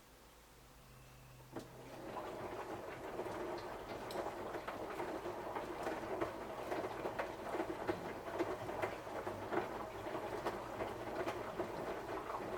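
Samsung washing machine on a 60 °C cotton wash: after a short near-quiet pause and a click, the drum starts turning about two seconds in, with wet laundry tumbling and water splashing in a steady patter.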